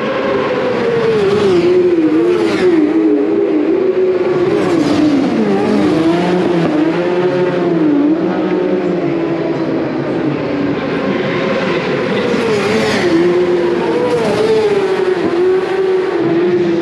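Several superbike racing motorcycles passing on the circuit one after another, engines loud and steady, their pitch rising and falling again and again.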